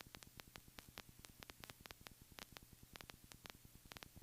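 Near silence with faint, irregular crackling clicks, several a second, over a faint steady low hum: electrical static on a dead audio feed.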